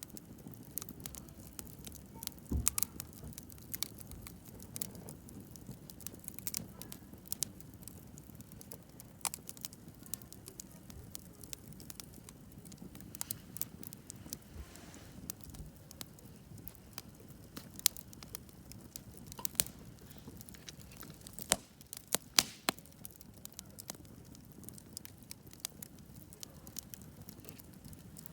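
Wood campfire crackling: irregular sharp pops and snaps over a low, steady rustle of burning, with a cluster of louder pops about two-thirds of the way through.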